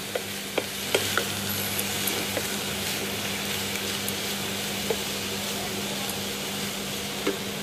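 Young figs and coconut paste sizzling in oil in a pressure cooker pan as a metal spatula stirs and sautés them, with a few sharp taps and scrapes of the spatula against the pan.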